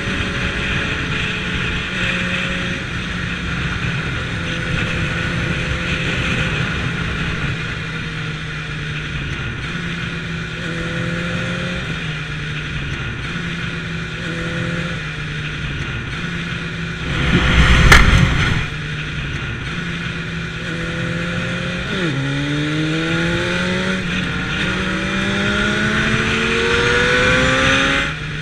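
Motorcycle engine running while riding on the road, with steady wind noise and small shifts in engine pitch. About seventeen seconds in there is a loud burst of noise lasting about a second. Near the end the engine note climbs as the bike accelerates.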